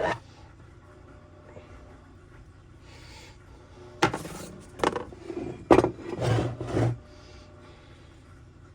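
Hands working on engine parts at a bench: a knock at the start, then about three seconds of rubbing and scraping broken by several sharp knocks.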